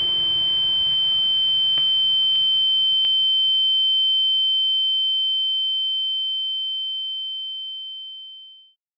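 A single steady high-pitched pure tone, used as a sound effect as the concussed listener loses consciousness. It fades slowly and cuts off near the end, with faint background ambience and a few soft clicks dying away under it in the first half.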